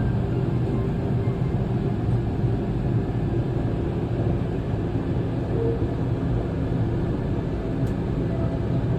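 Steady low drone inside an enclosed Ferris wheel gondola as the wheel turns slowly, with no breaks or sudden sounds.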